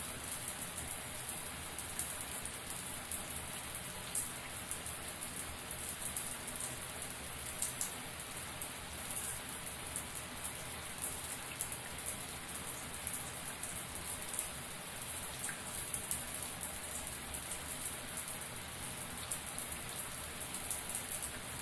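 A shower running steadily: a continuous hiss of water spraying and many drops spattering, with no change in flow.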